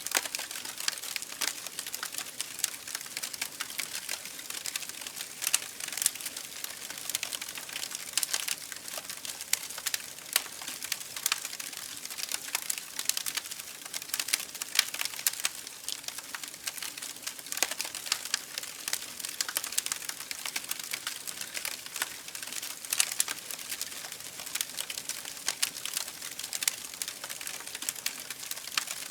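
Campfire crackling: a steady patter of small snaps and hisses from burning wood, with an occasional sharper pop.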